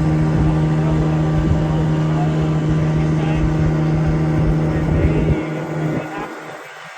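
Boat motor running steadily at an even pitch, then cutting off about five seconds in.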